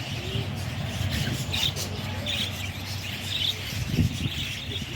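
Small birds chirping in short, repeated high calls, about one every second, over a steady low background rumble.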